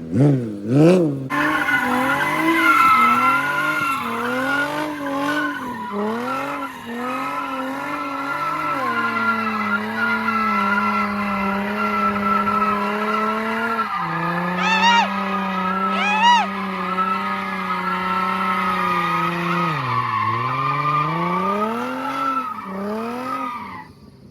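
A car being spun in donuts: the engine revs up and down, is held high for several seconds, then gives two sharp blips, while the tyres squeal without a break. The revs fall and the sound dies away near the end.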